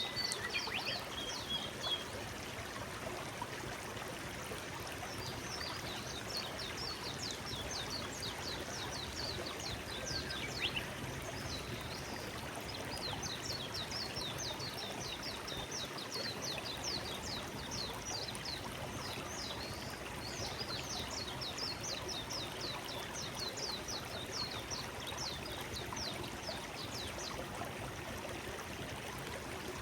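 Forest stream flowing steadily, with small birds singing long runs of quick, high chirping notes above it through much of the time.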